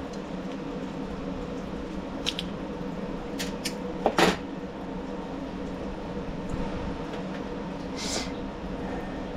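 A few light clicks and clinks of small carburetor parts and tools being handled, the loudest about four seconds in, over a steady background hum.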